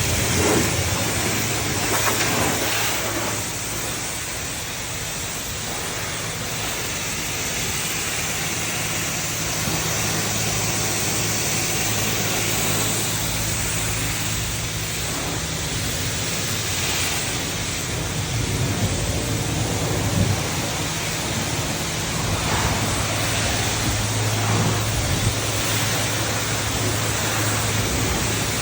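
Self-serve car wash high-pressure wand spraying rinse water onto a car: a steady hiss of spray with a constant low hum underneath.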